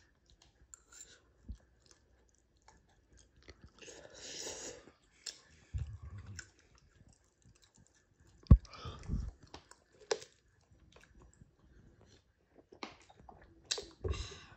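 A person chewing a mouthful of spicy instant noodles, with scattered small clicks and noisy bursts. A single sharp knock about eight and a half seconds in is the loudest sound.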